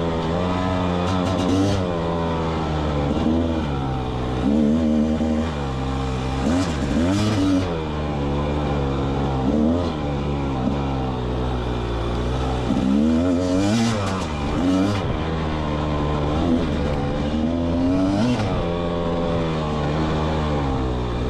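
Rieju MR300 Pro's 300cc two-stroke engine revving up and falling back again and again, with the throttle worked on and off every second or two, and a few brief scrapes.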